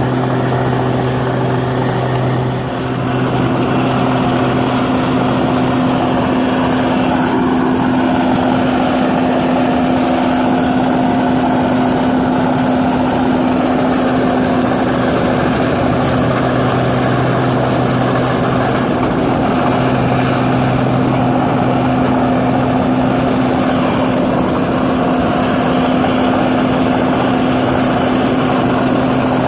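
New Holland 8060 combine harvester running steadily while harvesting rice paddy: a constant machine drone with a steady hum.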